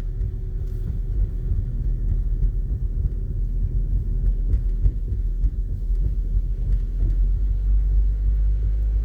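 Low, steady rumble of a car driving slowly on a snowy road, heard from inside the cabin.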